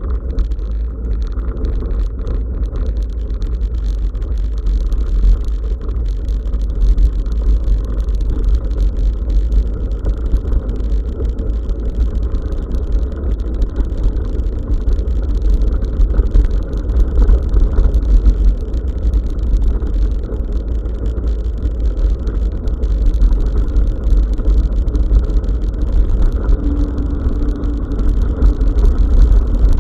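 Steady low rumble of wind buffeting and tyre noise from a bicycle riding a forest track, picked up by an SJCAM SJ5000X action camera's microphone.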